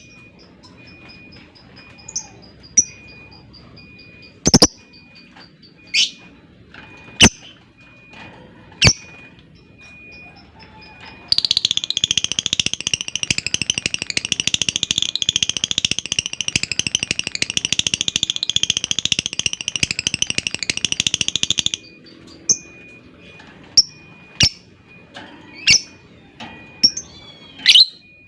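Lovebird calling: sharp high single chirps a second or two apart, then a long, fast chattering trill (the 'ngekek panjang') lasting about ten seconds, then sharp chirps again.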